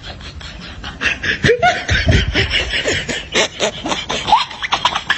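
Human laughter in quick, repeated bursts, starting about a second in and running for several seconds.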